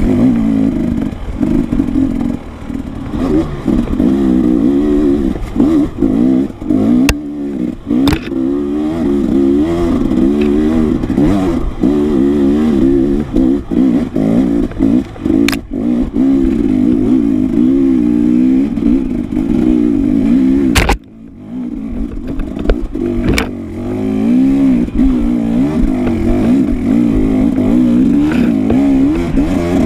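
Enduro dirt bike engine being ridden off-road, its revs rising and falling constantly with the throttle, with a few sharp knocks and clatter. About two-thirds of the way through, the engine note briefly drops away, then picks up again.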